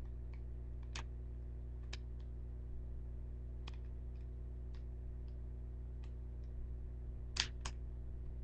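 Scattered sharp clicks and taps, roughly one every second or so, with a louder close pair near the end, over a steady low electrical hum.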